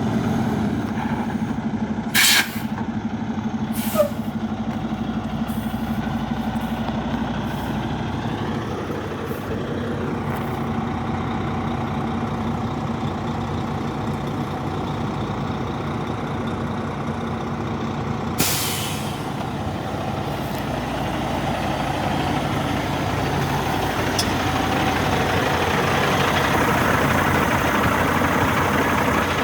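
Cummins X15 diesel engine of a 2019 Volvo VNL truck tractor running steadily, with short hisses of air from the truck's air system about two seconds in and again past the middle, and a sharp click about four seconds in.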